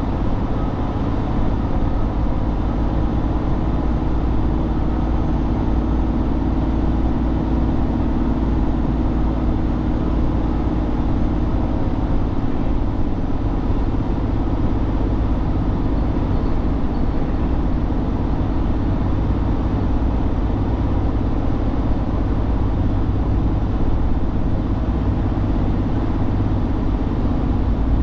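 Tractor-trailer engine running with a steady hum and road noise, with no sharp changes.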